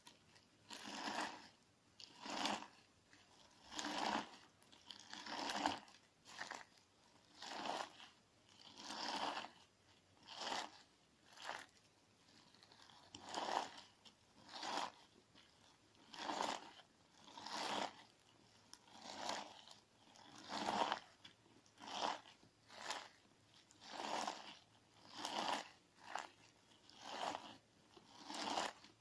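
Clear slime mixed with crunchy grit ('gorigori' sand) being pressed and worked, giving a grinding crunch in regular strokes about every second and a half.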